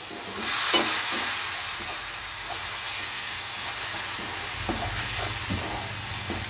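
Blended tomato and spice masala sizzling in a hot pan while a spoon stirs it, with short clicks of the spoon against the pan. The sizzle jumps up suddenly about half a second in, then slowly eases.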